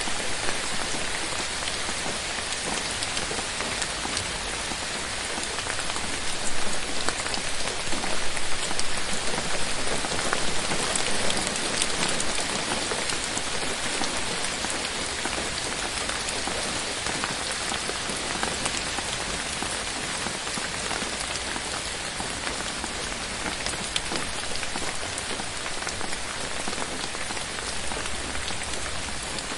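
Steady rain falling on forest leaves, a dense patter of drops with a few distinct louder drop hits, swelling slightly partway through.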